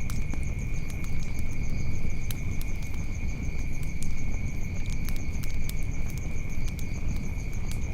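Wood fire crackling, with sharp pops scattered irregularly over a low rumble, against a steady high-pitched drone of insects.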